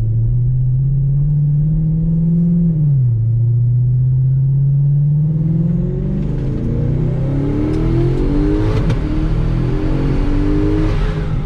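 Single-turbo Audi S6 V8 accelerating hard under boost, heard from inside the cabin with the window closed. The engine note climbs, drops at a gear change about three seconds in, then climbs again while a rushing hiss builds from about six seconds in.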